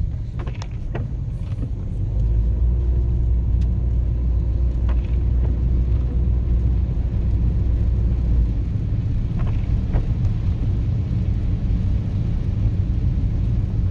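Car driving, heard from inside the cabin: a steady low rumble of engine and road noise that grows louder about two seconds in.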